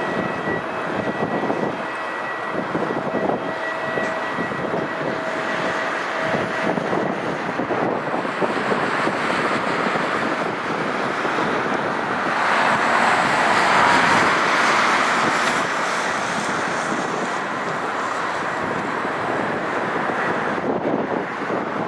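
Boeing 747-200F's Rolls-Royce RB211 jet engines running, with a thin whine in the first few seconds. The jet noise swells to its loudest a little past the middle and then eases off, with wind on the microphone.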